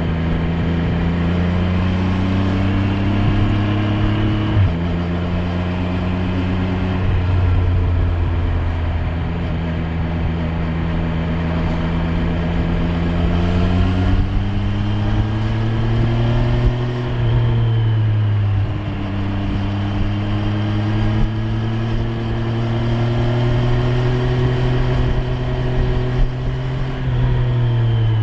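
Triumph Street Triple 765 R's inline three-cylinder engine running under way. Its pitch climbs under acceleration and drops sharply at gear changes, about 5 s in, around 17 s and near the end, with stretches of steady cruising between.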